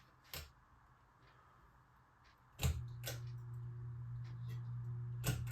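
A click about halfway through, then the ceiling fan's electric motor starts a steady low hum that keeps going.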